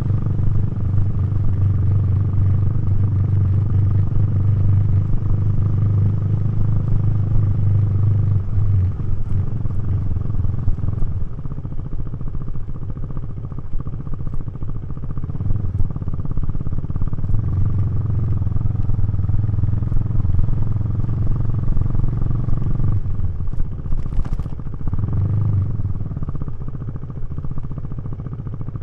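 KTM 390 Duke's single-cylinder engine running through a Remus exhaust while riding, the throttle held open in long pulls and eased off twice in the middle. The engine note is lower and quieter near the end.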